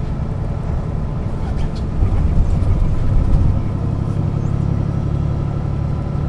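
Diesel engine of a 1996 Setra S 315 UL bus running, heard from on board as a steady low drone. It grows somewhat louder about two seconds in.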